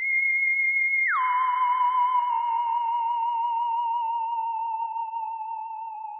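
Theremin-like electronic tone. It holds a high note, drops sharply about an octave about a second in, then wavers with a quick vibrato as it slowly sinks and fades.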